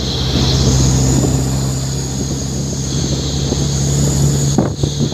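Truck engine running steadily through a 'Cung' style aftermarket exhaust, a deep even drone with no revving. A voice starts near the end.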